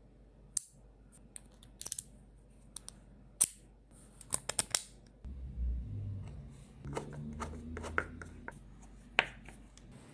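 Neodymium magnets and steel balls clicking and snapping together: a string of sharp clicks at irregular intervals, several in quick succession around the middle. A low humming rattle runs for about three seconds from about five seconds in.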